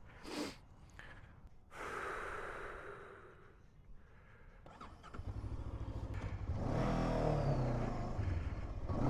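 A few short breaths and a gasp, then about five seconds in a motorcycle engine starts running and grows louder, steady with a slight rise near seven seconds.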